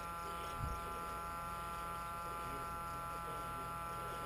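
A steady electrical buzz made of several held tones, unchanged throughout, with a single brief low thump just over half a second in.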